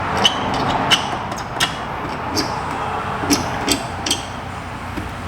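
Hand tools clicking and clinking against metal fittings, about seven sharp knocks at uneven intervals over a steady background hiss.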